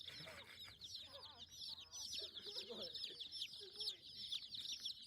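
Chickens: a dense, continuous chorus of quick, high falling peeps like a crowd of chicks, with occasional lower clucks mixed in.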